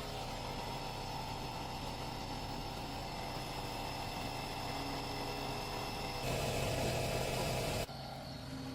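A motor running steadily with a low hum. It gets louder for about a second and a half near the end, then cuts off suddenly.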